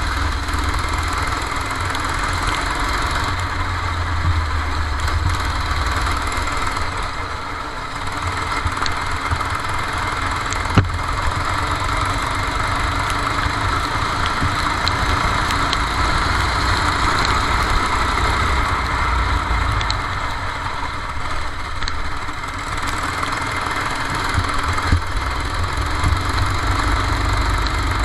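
Go-kart engine running steadily, heard from onboard, under a constant hiss; a single sharp tick about eleven seconds in.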